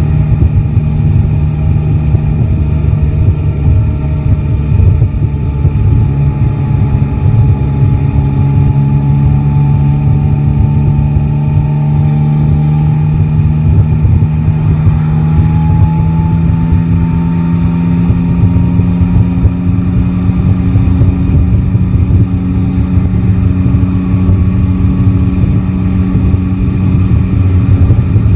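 Yamaha Tracer 9 GT's inline-three engine running steadily under way, heard from the rider's seat. Its note climbs gently through the middle stretch and then holds at the higher pitch.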